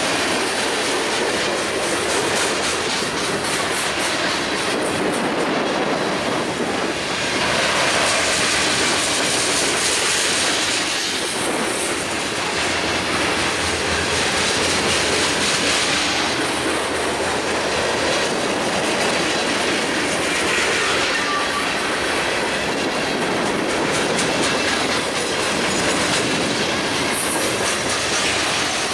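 Freight cars of a passing train rolling by close to the track: a steady din of steel wheels on the rails with a rhythmic clickety-clack.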